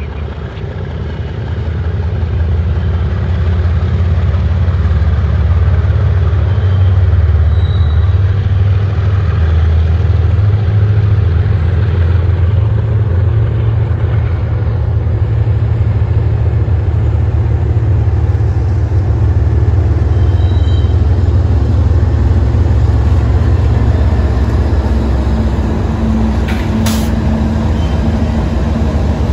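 Diesel locomotives at the head of a freight train approaching and passing close by, their engines giving a heavy, steady low drone that builds over the first few seconds and then holds as the units go past, with a steadier higher engine tone joining near the end.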